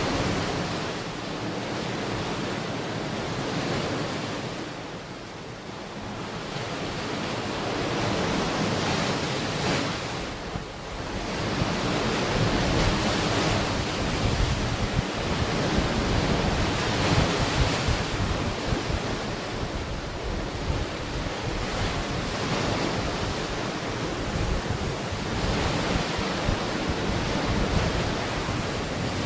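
Ocean waves washing onto a beach, the surf rising and falling in swells, with wind gusting on the microphone.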